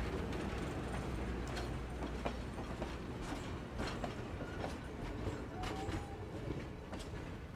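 Passenger train rolling by: a steady low rumble with irregular wheel clicks over the rail joints.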